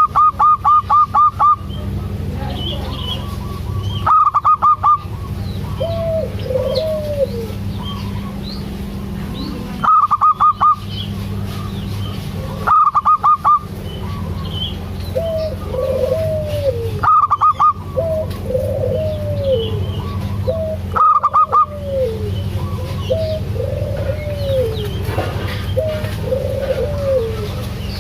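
Zebra doves (perkutut) calling: a loud burst of quick repeated notes comes every few seconds, about six times, with softer, lower, falling coos between the bursts. A steady low hum runs underneath.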